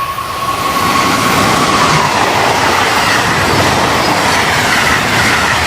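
Amtrak train led by an AEM7 electric locomotive passing close at speed: a loud rush of wheels on rail, with a steady whine that drops in pitch about a second and a half in as the locomotive goes by. Then comes the clatter of the passenger cars' wheels, some of which have flat spots that hammer on the rails.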